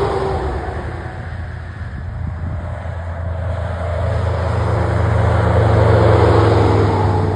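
Heavy trucks' diesel engines pulling up a motorway hill, with tyre noise. One passes as the sound begins and fades; a second builds to a close pass about six seconds in, its low engine drone loudest there and its pitch dropping as it goes by.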